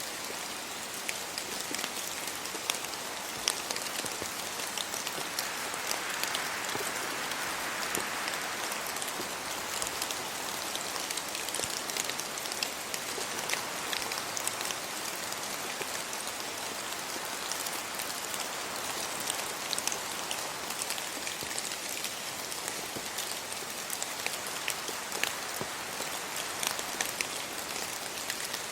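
Steady rain falling, an even hiss with many sharp drop ticks scattered throughout, swelling a little about six to eight seconds in.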